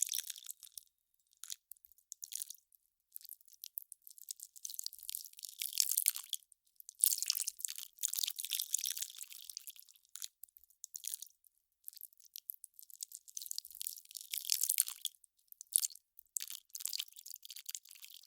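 Melting ice crackling and fizzing: fine, high crackles in irregular spells of a second or two, broken by short silences.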